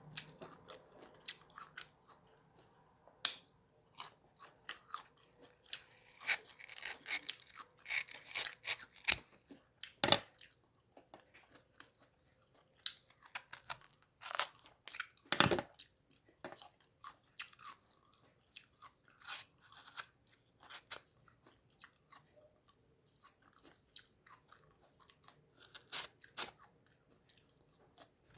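Close-miked biting and chewing of crisp, unripe green mango: irregular crunches and mouth sounds, with two louder bites about ten and fifteen seconds in.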